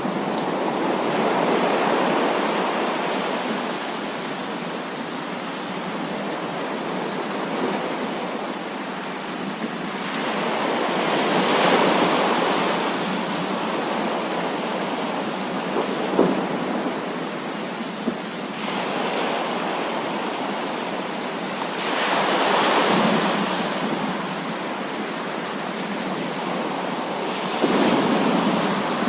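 Heavy rain falling steadily, with thunder rolling in and swelling several times.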